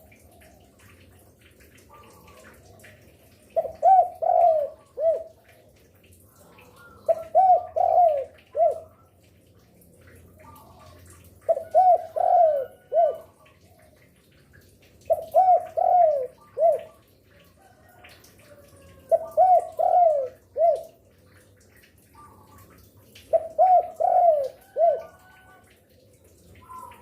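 Spotted dove (derkuku) cooing: six phrases of three or four coos each, repeated about every four seconds, with faint chirping in between.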